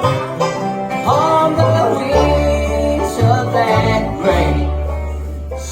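Bluegrass band playing live, banjo and guitar picking over a steady bass, ending on a held chord that slowly fades over the last second or so.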